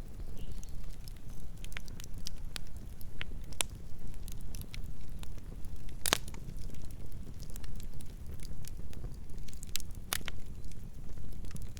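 Wood fire burning, a steady low rumble of flames with irregular crackles and sharp pops of burning logs; the loudest pop comes about six seconds in, another near ten seconds.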